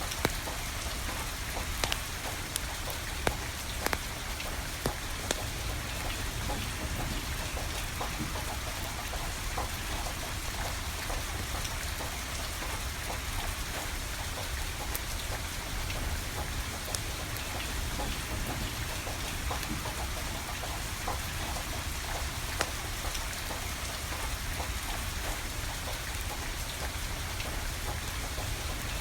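Steady rain falling, with the sharp pops and crackles of a burning wood fire, several close together in the first five seconds and a few scattered later.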